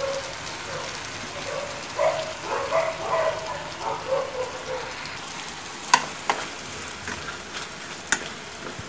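Beef and bell peppers sizzling and bubbling in sauce in an aluminium wok, with two sharp taps about six and eight seconds in as chopsticks strike the pan.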